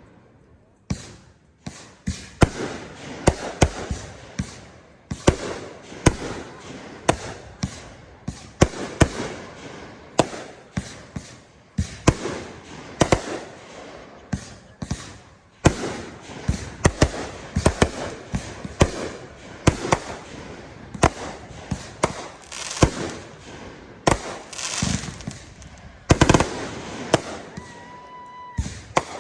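Consumer and display fireworks, 3-inch artillery shells and 500-gram cakes, going off in a dense, irregular run of sharp bangs with crackling between them, several a second at times. A brief steady whistle-like tone sounds near the end.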